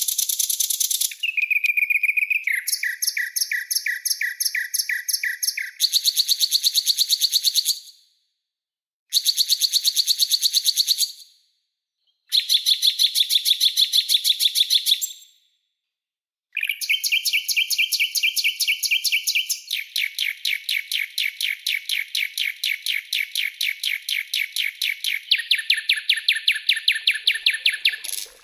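Songbird calls from a bird-training (masteran) track: sharp, rapid-fire 'shooting' and rasping rattles, each phrase a fast train of evenly repeated high notes several times a second. The phrases come one after another, broken by short silent gaps.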